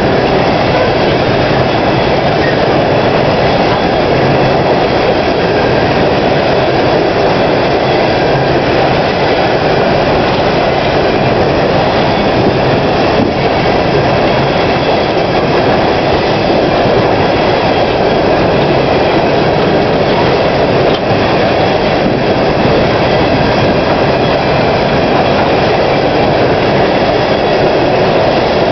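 Empty coal cars of a freight train rolling steadily past at close range: a loud, continuous rolling noise of steel wheels on the rails.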